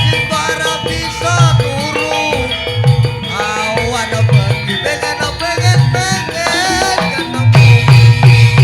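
Live Javanese band music: a wavering melody line over drum strikes and heavy low beats.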